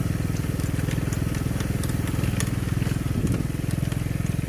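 Small motorcycle engine running steadily at low speed, a fast even pulsing beat, with scattered faint ticks of gravel under the tyres on a rough road.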